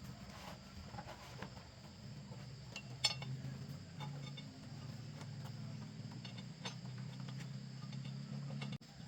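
A faint steady low hum with scattered light clicks and clinks, the sharpest one about three seconds in.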